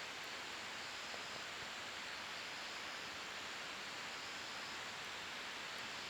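Wood campfire burning with a steady hiss and a few faint crackles.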